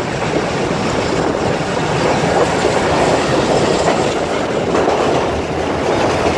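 Passenger train running at speed, heard from an open coach doorway: steady wheel-on-rail running noise.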